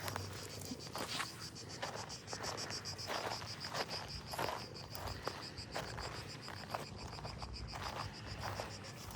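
An insect chirring in a fast, even pulse, high-pitched and steady throughout, with footsteps crunching along at a walking pace.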